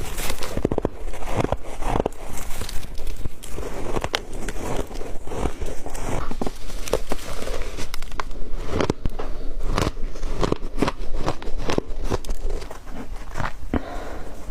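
Close-miked biting and chewing of soft, dry, crunchy ice, a rapid irregular run of crisp crunches.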